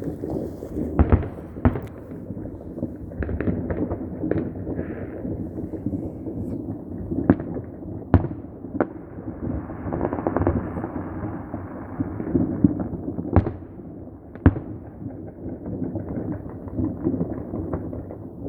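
Fireworks and firecrackers going off: a continuous dense crackle and rumble of many bursts, with a handful of sharp, louder bangs standing out. Two of these come about a second in, three between seven and nine seconds, and two between thirteen and fifteen seconds.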